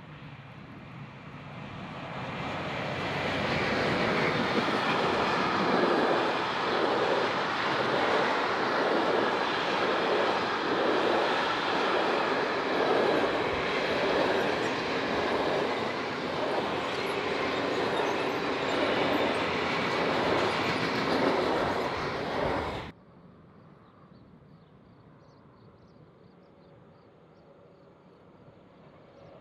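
Freight train passing close: a Fret SNCF BB 75000 diesel locomotive goes by, followed by a long rake of container and covered wagons. The wagon wheels clack in an even rhythm over the rail joints. The sound cuts off abruptly about 23 s in, leaving only a faint distant rumble.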